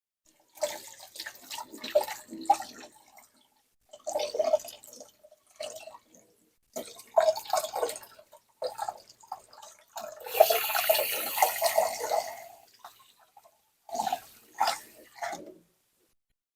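Water splashing and pouring in five short bursts, each cut off abruptly into silence; the longest and loudest comes about two-thirds of the way through.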